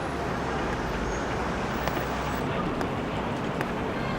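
Street traffic ambience: a steady hum of motor vehicles with faint clicks.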